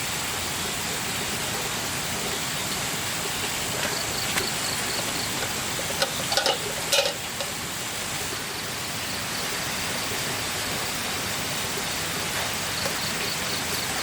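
Steady rushing of flowing water, with a few short knocks about six to seven seconds in.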